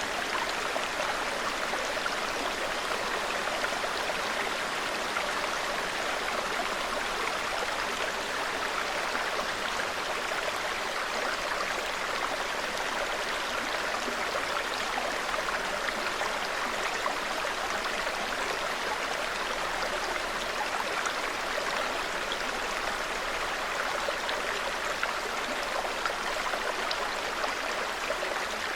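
Small mountain forest stream babbling steadily, an even, unbroken rush of water.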